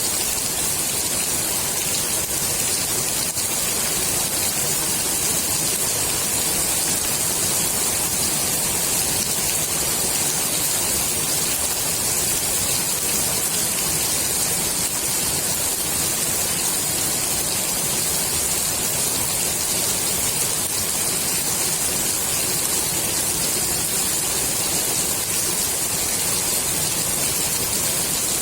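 Steady rain falling onto the water of a swimming pool, a continuous even hiss of drops hitting the surface.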